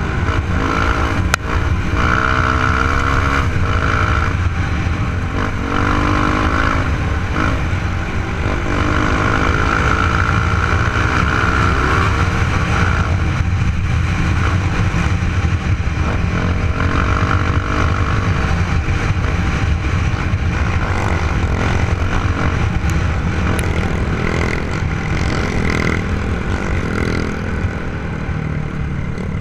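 Off-road trail motorcycle engine running under way, its pitch rising and falling again and again as the throttle is opened and closed, over a steady low rumble.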